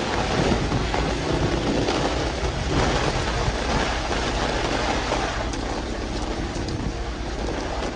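Heavy rain falling steadily on a city street, an even hiss with a low rumble underneath.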